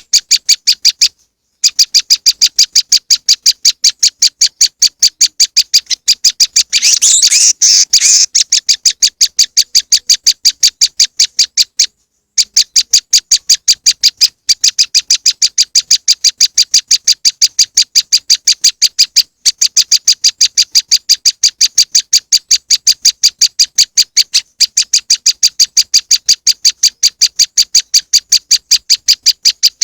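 Prenjak lumut (moss wren) calling a fast, even series of sharp high chip notes, about four a second, looped as a bird-lure recording. The series breaks off briefly a few times, and a denser chattering burst comes about seven seconds in.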